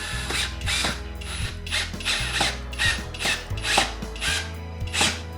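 Drill driving a screw into a door strike plate in short, slow bursts, with repeated ratcheting clicks.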